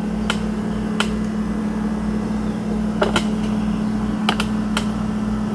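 Refrigerator with its door open, running with a steady low hum, with a few light clicks and taps from items and shelves being handled.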